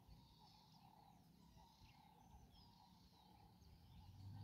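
Near silence: faint open-air ambience with distant birds chirping.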